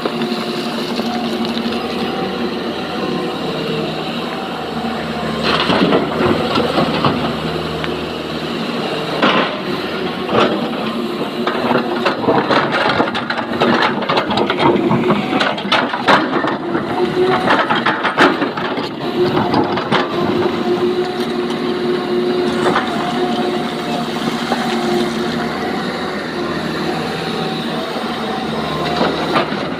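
A SANY excavator's diesel engine running steadily under load. From about nine seconds in to about twenty, a run of knocks and clattering rings out: rock being dumped and scraped into a steel tipper body.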